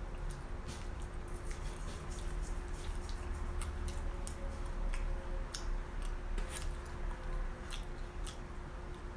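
Close-miked mouth sounds of someone eating barbecue chicken: chewing with many small wet clicks and smacks, over a steady low hum.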